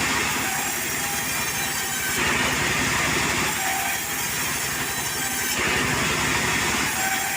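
Portable sawmill running, its engine drone steady under the noise of the saw cutting wood, the cutting sound swelling and easing about every three seconds.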